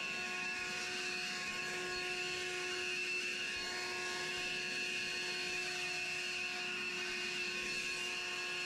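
Battery-powered leaf blower running steadily at full speed: an even rush of air with a high fan whine, cutting off abruptly at the end.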